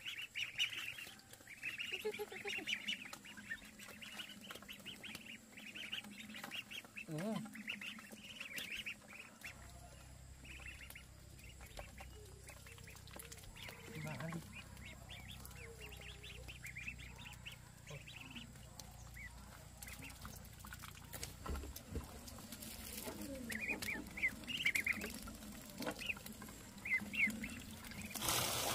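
Birds calling over and over in short repeated calls, with a faint low hum joining about nine seconds in.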